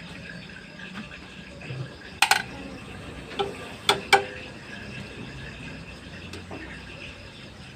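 A few sharp clinks and knocks of hard objects, a quick cluster about two seconds in and three more around the four-second mark, over a steady background hum.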